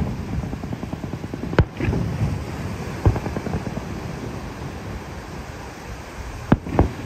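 Aerial firework shells bursting with sharp bangs: one about a second and a half in, another about three seconds in, and two close together near the end. Crackling and low rumbling fill the gaps between them.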